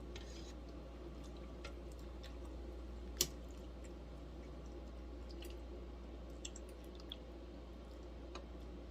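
Quiet eating sounds at a table: faint chewing and scattered small clicks, with one sharper click about three seconds in, over a steady low hum.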